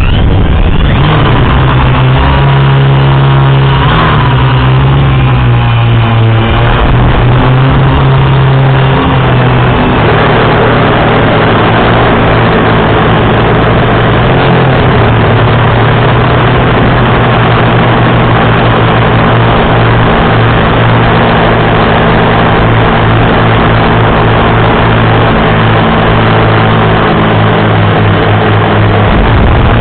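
Electric motors and propellers of a 450-size quadcopter running in flight, a loud steady hum. The pitch wavers over the first several seconds, then holds steady.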